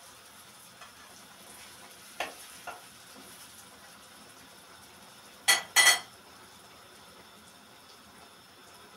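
Kitchenware being handled: a few light clinks, then two loud ringing metal clanks in quick succession, over a faint steady hiss.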